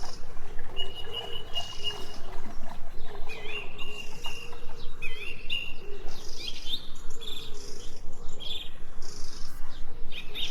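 Small birds chirping and singing, with repeated short high chirps, held high trills and quick rising calls.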